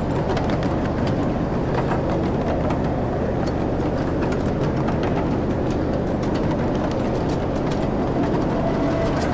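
Passenger ride train running along its track, a steady rumble and low hum with scattered light clicks from the wheels and cars.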